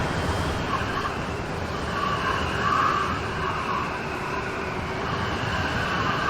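Steady heavy rain from a rain storm, an even continuous hiss.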